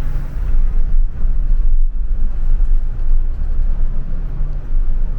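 Bus running, a steady deep rumble heard from inside the passenger cabin.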